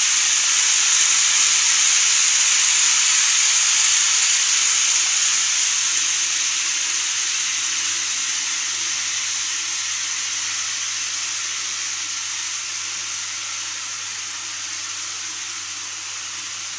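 Model train running on the layout track, a steady rolling hiss that slowly fades away, over a faint low electrical hum.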